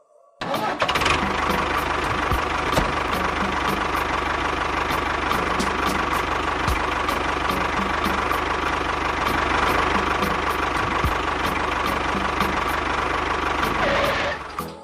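A motor or engine running steadily and evenly, starting about half a second in and cutting off shortly before the end.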